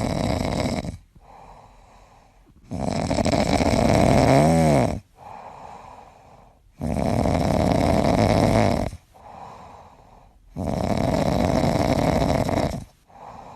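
A pet snoring in a slow, even rhythm: four loud snores about three and a half seconds apart, with quieter out-breaths between them. There is a brief whistling tone in the second snore.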